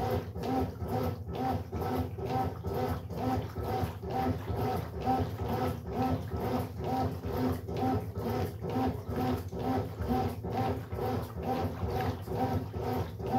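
Brastemp Sexto Sentido 8 kg washing machine running its wash cycle: the motor and drive make a rhythmic, pitched groan that pulses about twice a second over a low rumble.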